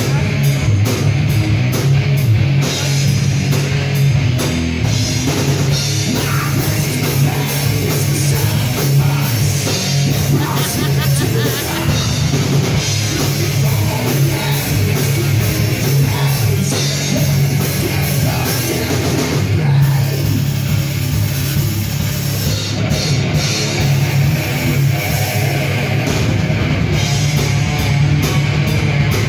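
A rock band playing live and loud, with drum kit and distorted guitars filling the sound without a break.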